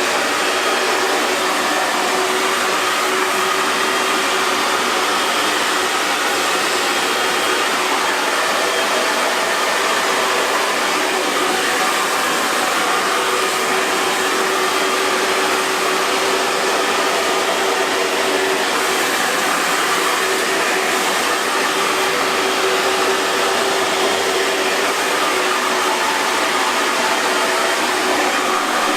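Hair dryer running steadily: an even rush of blown air with a constant motor hum under it.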